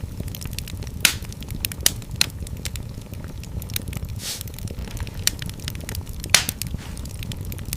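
Fire burning in a fireplace, crackling with irregular sharp pops over a low, steady rumble of the flames. A short hiss comes about four seconds in.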